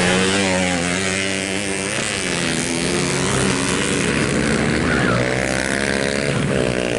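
Racing motorcycle engines revving at the track, several at once, their pitch rising and falling as the riders work the throttle.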